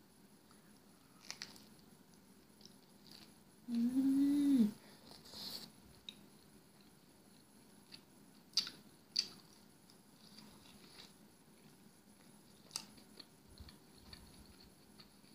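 A woman chewing a bite of pizza, with scattered mouth clicks and smacks, and a short hummed "mmm" about four seconds in, rising then falling in pitch, the loudest sound.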